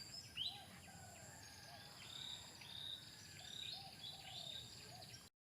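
Faint outdoor ambience: a steady high insect drone with repeated short chirping calls. The sound cuts off abruptly near the end.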